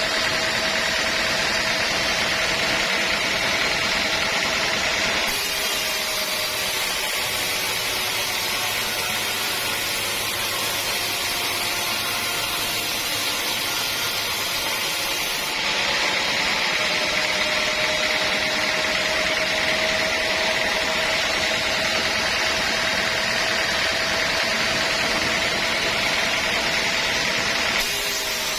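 Sawmill saw running steadily while sawing teak logs, a constant whine over hiss. The sound turns duller about five seconds in, then brighter and harsher again from about halfway until just before the end.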